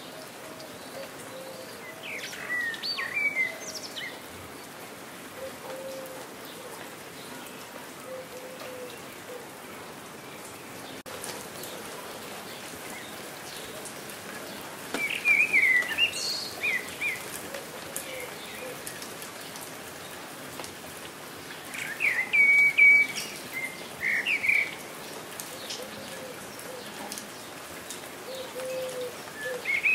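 Steady rain falling, with songbirds chirping in short bright phrases four times: a little after the start, around the middle, a few seconds later, and near the end. Faint low calls repeat softly underneath every few seconds.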